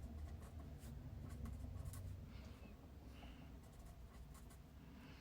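Faint room tone of a small room: a steady low hum with scattered light clicks, and a soft scratching rustle about halfway through.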